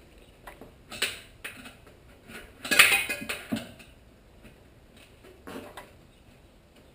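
Metal tire irons clinking and scraping against a dirt bike wheel rim as the tire bead is levered on in small bites: scattered clicks, with the loudest cluster about three seconds in.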